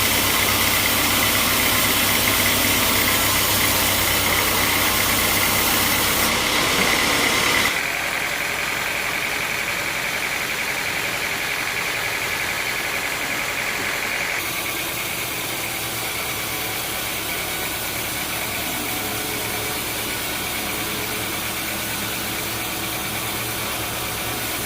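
Sawmill machinery running steadily: a continuous mechanical drone with a high whine and a low hum. The sound shifts abruptly about seven or eight seconds in, becoming quieter, and changes again around fourteen seconds in.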